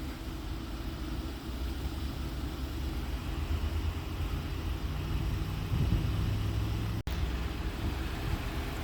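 Moped engine running with a steady low rumble; the sound drops out for an instant about seven seconds in.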